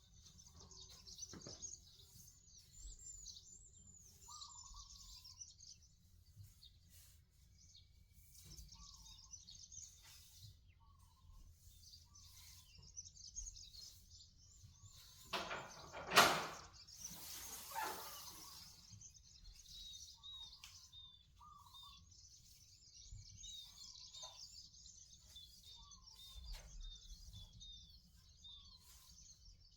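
Many small birds chirping and twittering on and off, with one loud sharp knock about halfway through and a smaller rustling clatter just after it.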